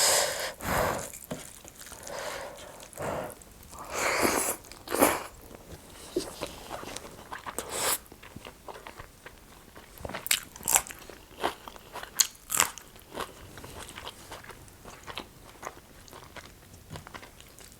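Close-miked eating: a person biting and chewing a meal of rice with curry and potatoes, with irregular wet mouth noises and sharp clicks. A few louder bites stand out, and a run of sharp clicks comes about ten to thirteen seconds in.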